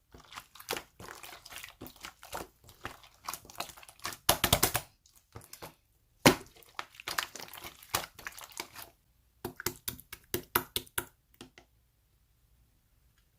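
Slime squished and stretched by hand, making dense crackling and popping clicks. The clicks pause briefly about halfway, come back in a quick run, then stop shortly before the end.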